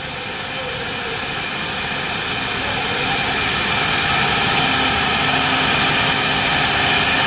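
Four-head CNC wood router running, a steady whine over a noisy hiss. It grows louder over the first few seconds, then holds steady.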